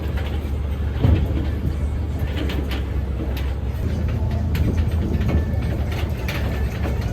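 A moving vehicle: a steady low rumble with scattered faint clicks and ticks above it.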